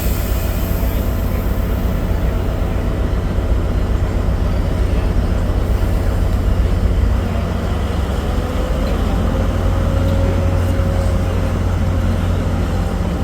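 Tri-Rail diesel push-pull commuter train pulling out of the station, a loud, steady low rumble of the locomotive and cars moving off.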